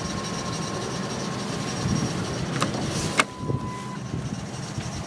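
Ford F-150 engine idling steadily on a cold start at −15 °C, with a thin steady squeak over the idle that is probably the serpentine belt. Two sharp clicks about three seconds in.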